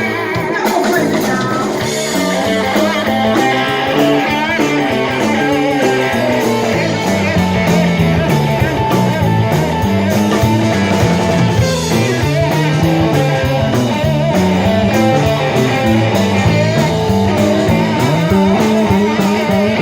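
Rock band playing an instrumental passage: electric guitar over a stepping bass line and a steady drum beat.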